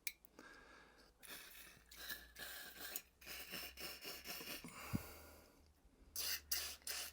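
Short hissing sprays of aerosol carburettor cleaner being shot through a small-engine carburettor's passages to flush them clear, mixed with light rubbing and scraping as the carb body is handled. A faint steady low hum runs underneath, and there is one sharp tick about five seconds in.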